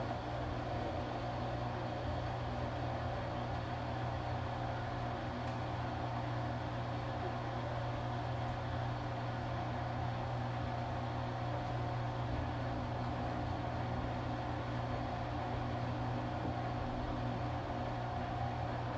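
Washing machine motor running steadily as it turns the drum, a low hum with a fainter whine above it, stopping abruptly at the very end.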